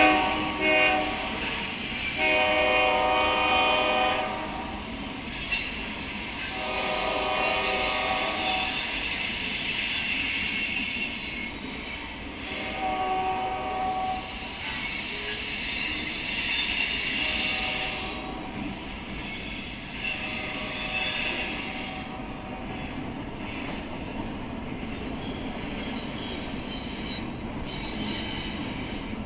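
Freight locomotive horn sounding several long blasts, fading in the later ones, as a CSX freight train rolls past. Its wheels squeal on the rail at times, over a steady rumble of the passing cars.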